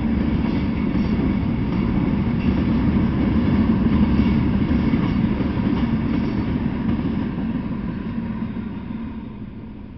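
Freight train of covered hopper cars rolling past: a steady rumble of wagons and wheels on the rails, dying away over the last few seconds.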